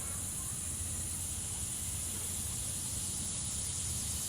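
Steady outdoor insect chorus, a continuous high-pitched buzz that does not change, over a low steady rumble.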